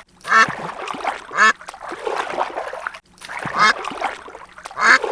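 Ducks quacking, short loud calls about once a second, over the sound of splashing water.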